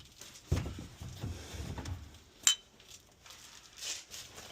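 Metal objects being handled: a few knocks and clinks, with one sharp ringing clink about two and a half seconds in.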